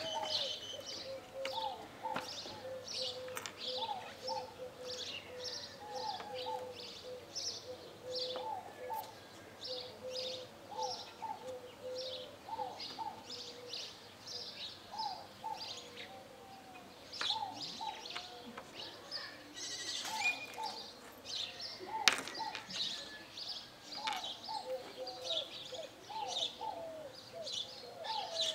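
Birds chirping throughout: quick high chirps over a lower call that repeats in short pairs. A single sharp click stands out about 22 seconds in.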